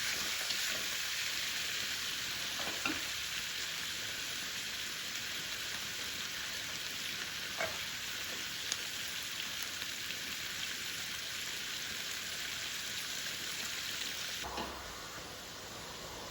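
Food frying in a hot pan, a steady sizzle with a few light clicks of a utensil; the sizzle drops suddenly near the end.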